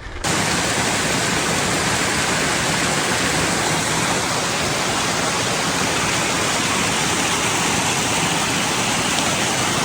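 Waterfall pouring steadily close by: an even, unbroken rush of falling water that starts abruptly just after the start.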